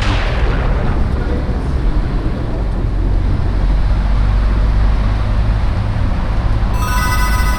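Steady low rumble of street traffic, with a vehicle's hiss fading just after the start. Near the end a set of steady high tones comes in.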